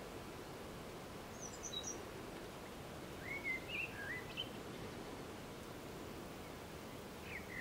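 Wild songbirds calling over steady low background noise: a short high twitter about one and a half seconds in, a warbling phrase a couple of seconds later, and another starting near the end.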